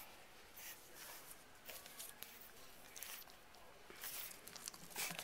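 Faint scuffling and rustling of movement with a few light, scattered taps.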